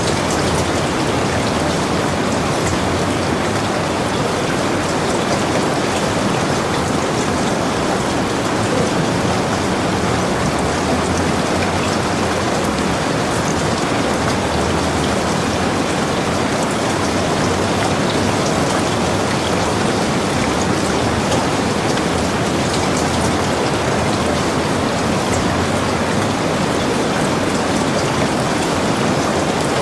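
Heavy rain falling steadily, a dense even hiss with scattered individual drops hitting.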